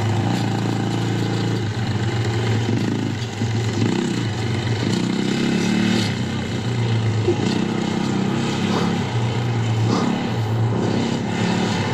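Yamaha YZ450F dirt bike's single-cylinder four-stroke engine running at low speed, its revs rising and falling unevenly as the bike is ridden.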